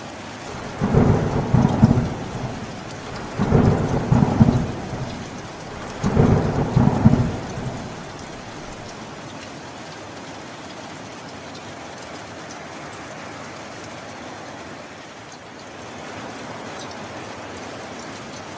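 Three thunder rumbles in quick succession, each lasting a second or two, over steady rain; after the third only the steady rain remains.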